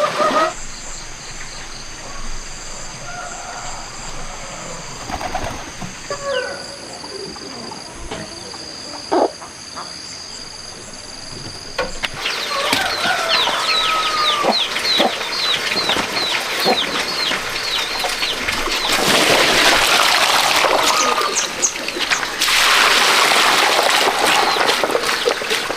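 Birds calling, with farmyard fowl such as chickens: from about halfway, rapid repeated high chirps. Near the end come two stretches of louder rushing noise.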